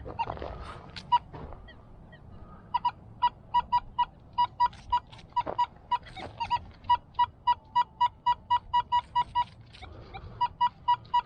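Metal detector giving a steady run of short, same-pitched beeps, about three a second, over a buried metal target, with a short break near the end. A few scrapes and knocks of digging come before the beeping starts.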